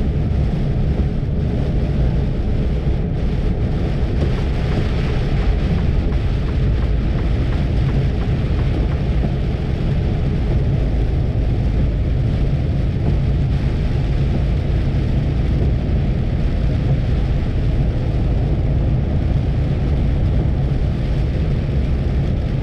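Steady cab noise of an HGV lorry driving on a wet motorway: a deep engine and road rumble with the hiss of tyres on water.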